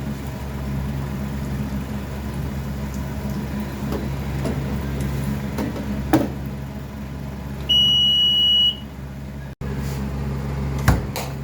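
Steady low machine hum with a few light knocks, and a single electronic beep lasting about a second midway through.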